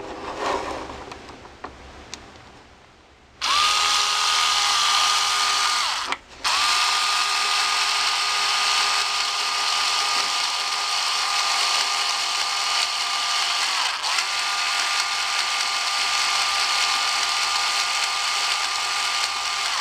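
Power drill driving a screw into an RC truck's steering block: after a few seconds of light handling clicks, the motor starts and runs with a steady whine for about sixteen seconds, stopping briefly about six seconds in.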